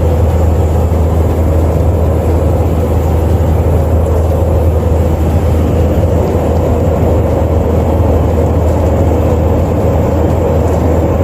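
Steady drone of an airliner cabin in flight: engine and airflow noise with a strong low hum and a faint steady tone above it.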